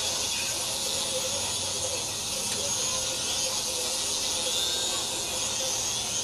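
PicoZ MX-1 micro remote-control helicopter's electric motor and rotor running with a steady high whirring hiss and a faint wavering hum underneath.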